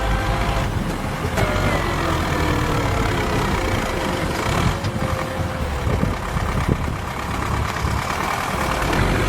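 Tractor engine running under load, its pitch sliding up and down.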